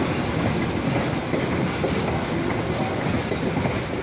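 Oil Creek & Titusville passenger train rolling past close by, a steady rumble of wheels running on the rails.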